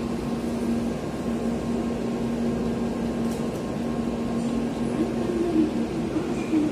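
Steady hum of a stationary N700-series Shinkansen at the platform, its on-board equipment running with a constant low tone.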